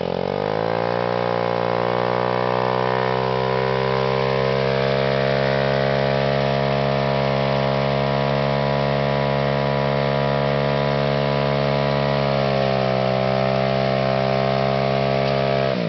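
Modified 2004 Honda CRF50 pit bike's single-cylinder four-stroke engine revving up over the first couple of seconds, then held at high, steady revs through a long burnout. The revs sag a little near the end, then drop off suddenly.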